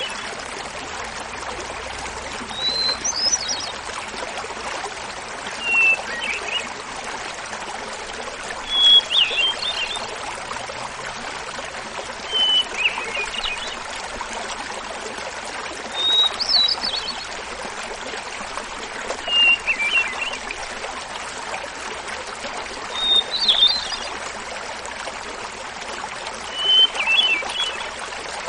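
Hermit thrush singing over the steady rush of a small waterfall: eight fluty phrases about three and a half seconds apart, each a held opening note followed by a quick flourish, alternating between lower and higher pitches.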